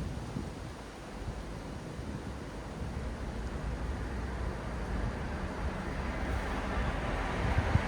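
Road traffic: a steady rumble of engines and tyre noise that grows louder toward the end as a vehicle draws near, with a brief thump shortly before the end.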